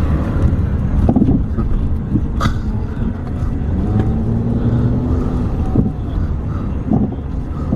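Car driving, its engine and road noise a steady low rumble inside the cabin, with a few brief knocks.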